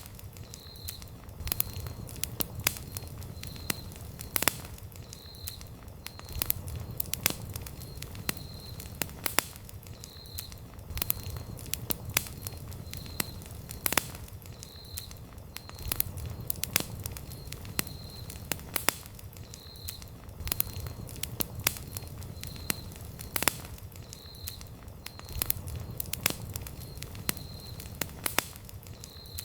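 Wood campfire burning, with frequent sharp crackles and pops over a steady low rumble of the flames. A faint short high chirp repeats about once a second throughout.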